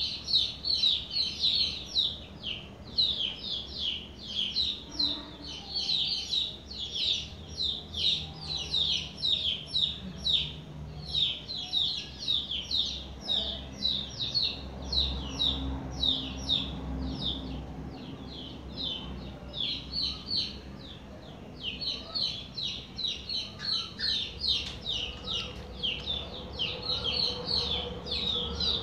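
Small birds chirping in a rapid, continuous stream of short, high chirps, thinning out briefly about two-thirds of the way through.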